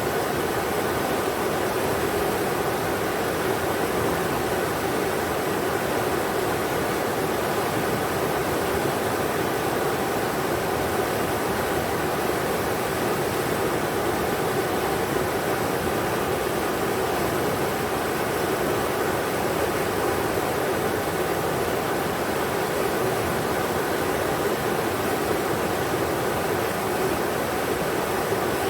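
Steady rushing of a river's flowing water, an even, unbroken wash of sound.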